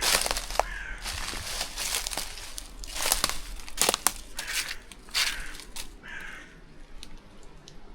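Footsteps crunching and crinkling through dry ground cover, in uneven steps.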